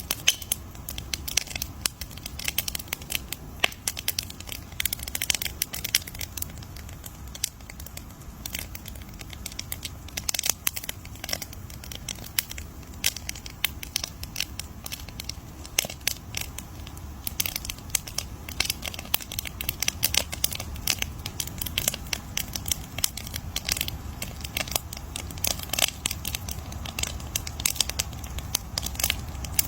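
Wood fire crackling: a dense stream of irregular sharp snaps and pops over a low steady rumble.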